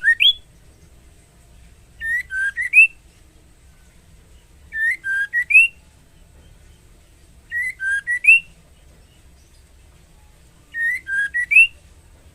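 Female white-rumped shama calling, a short phrase of three or four whistled notes ending on a rising note, repeated about every three seconds: the call a female in breeding condition gives to draw a male.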